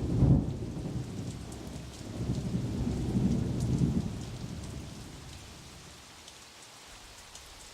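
Thunder rumbling over steady rain, the low rolling rumble swelling twice and then dying away.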